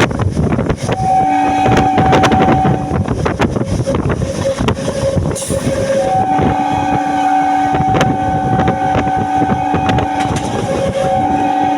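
Local passenger train running, a loud steady rumble with scattered clacks. Sustained steady tones at two pitches sound for a couple of seconds early on, again for about four seconds after the middle, and briefly near the end.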